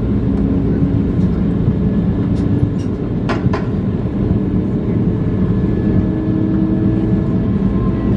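Cabin noise inside an Airbus A220-300 on the ground: a steady low rumble with the hum of its Pratt & Whitney geared turbofans at low power, one tone drifting slowly upward. A couple of faint clicks come a little over three seconds in.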